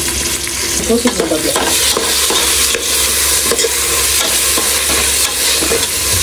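Biryani base of onions and ginger-garlic paste sizzling in hot oil in a pan, stirred with a spoon that knocks and scrapes against the pan now and then.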